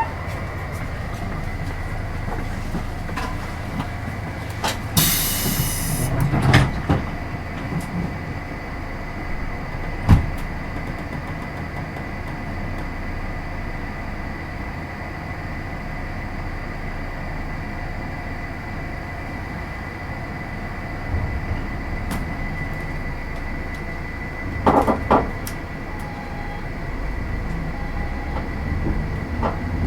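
Inside an Oigawa Railway 16000-series electric train car: a steady hum and rumble with a high steady tone, a short loud hiss about five seconds in, and a few sharp knocks. Near the end the low rumble builds and a rising tone begins.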